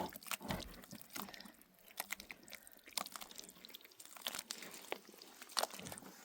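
Irregular crunching and clicking: a scattered series of sharp ticks and crackles at an uneven pace.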